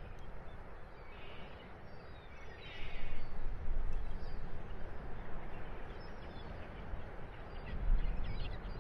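Wind rumbling and gusting across the microphone on an open clifftop. A few faint, short bird calls come through it, the first about a second and a half in.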